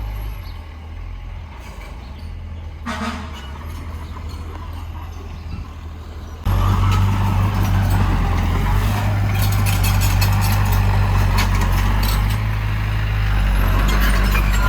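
Heavy diesel machinery running with a low, steady engine rumble. About halfway through it cuts suddenly to a louder stretch of engine noise with rattling and clatter.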